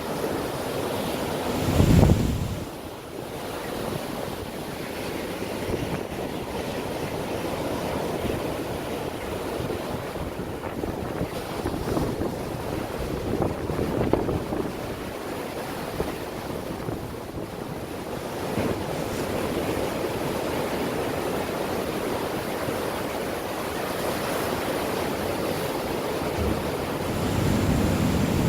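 Heavy ocean surf breaking and washing in, with strong wind buffeting the microphone in gusts, the heaviest about two seconds in and again near the end.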